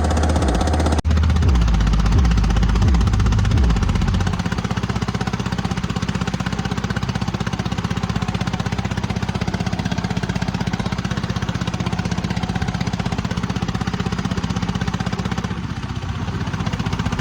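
Tractor diesel engine idling steadily with a rapid, even knock.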